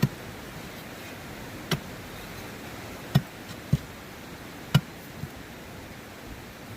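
Shovel digging into river gravel: about six sharp, irregular knocks of metal striking rock, over a steady rush of river water.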